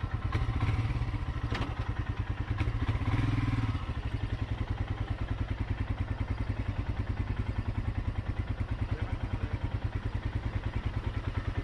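Royal Enfield motorcycle engine idling with an even, fast pulsing beat, swelling louder twice in the first four seconds.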